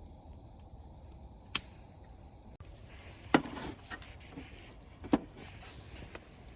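Three sharp knocks or clinks about two seconds apart, the middle one loudest with a brief ringing tail, and a few fainter ticks between them, over a low steady background.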